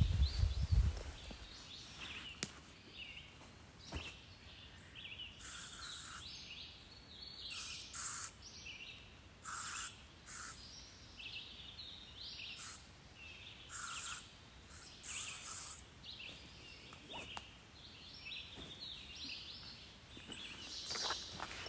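Woodland birds singing: many short chirping calls throughout, with louder, brighter bursts of song through the middle. A few low thumps sound right at the start.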